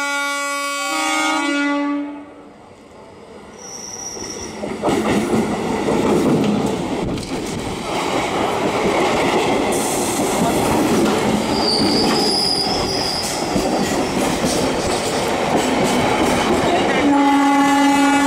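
Conventional electric multiple unit (EMU) train sounding its horn for about two seconds as it approaches, then running past close by with loud wheel and carriage clatter and brief high wheel squeals. A train horn sounds again near the end.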